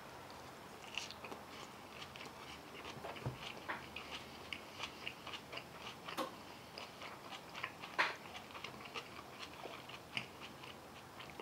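A person chewing a mouthful of green mango and green apple salad with fried fish and cashews: faint, irregular small clicks of chewing, with one louder one about eight seconds in.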